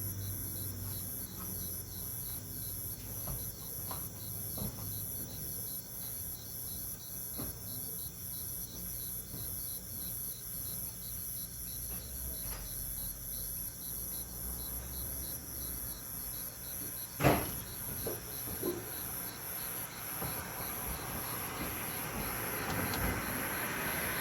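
Crickets chirping steadily in an evening chorus, two kinds at different pitches, the higher one pulsing about twice a second. A single sharp knock sounds about seventeen seconds in, and a swelling rush of noise builds near the end.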